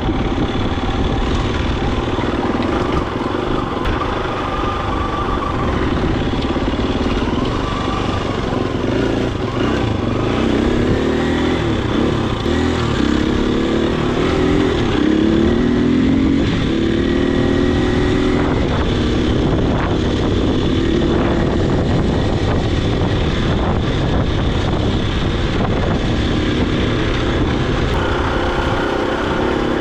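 Husqvarna FE250 single-cylinder four-stroke dirt bike engine running under way, its pitch rising and falling as the throttle opens and closes.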